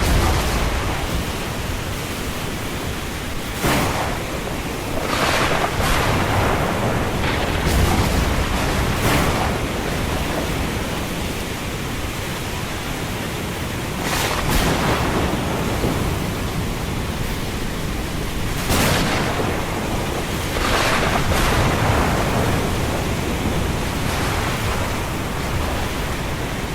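Thunderstorm ambience: a steady rush of rain and wind, with brief gusts swelling up every few seconds.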